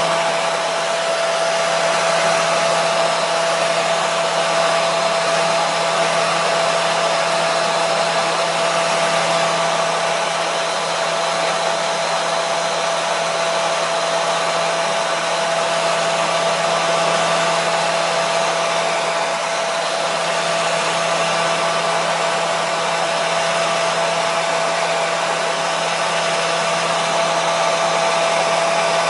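Hair dryer running continuously: a steady rushing of air with a fixed motor hum, unchanging in pitch and level.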